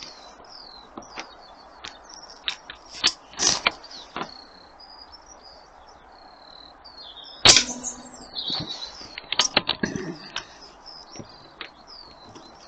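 An AP900 air rifle fires a single shot about seven and a half seconds in, a sharp crack that is the loudest sound. Clicks of the rifle being handled and loaded come before and after it, and small birds chirp throughout.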